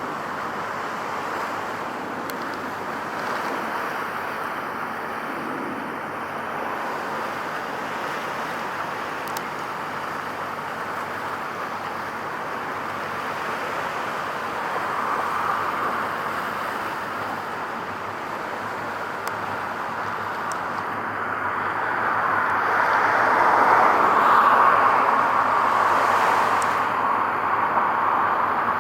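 Steady road-traffic noise, growing louder for a few seconds toward the end as a vehicle passes.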